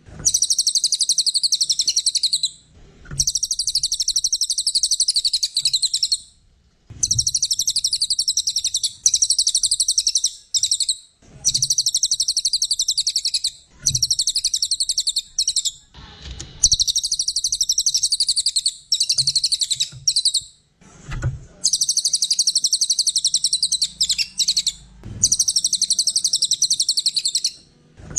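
A cililin songbird singing a loud, rapid, high-pitched trilling song in phrases of about two to five seconds, each broken by a short pause, with faint low knocks now and then.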